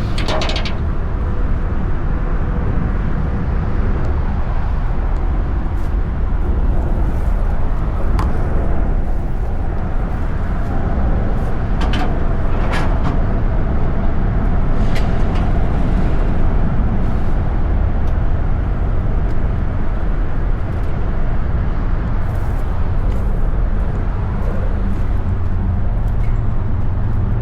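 Steady low rumble of a running garbage truck engine, with a few sharp metallic knocks about twelve and fifteen seconds in.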